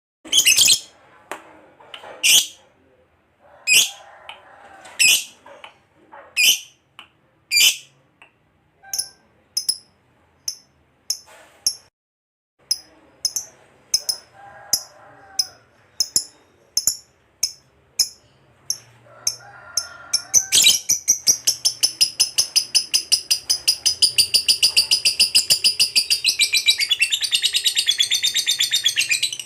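Lovebird calling: sharp single high chirps, spaced more than a second apart and coming steadily faster, break about two-thirds through into a long, fast, unbroken trill of rapidly repeated notes, the 'ngekek panjang' that lovebird keepers prize.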